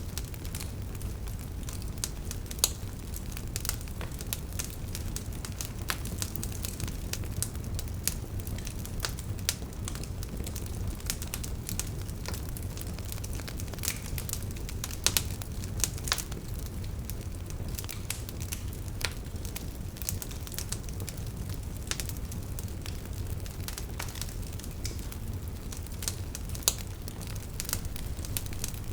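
Wood fire burning with crackling logs: irregular sharp pops and snaps over a steady low rumble of the flames, a few pops louder than the rest.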